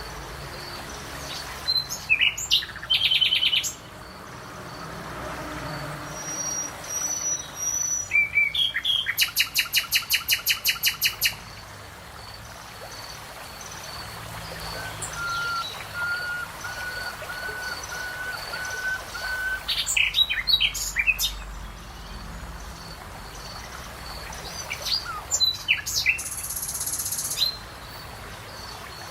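Several birds singing in turn: sharp high chirps, a fast even trill lasting a couple of seconds, and a run of short, evenly spaced whistled notes. A faint high note repeats steadily underneath, over a soft background hiss.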